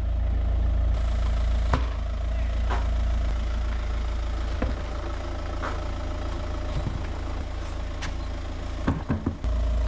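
A Volkswagen car's engine idling steadily, with a few sharp clicks and creaks scattered over it, most of them near the end.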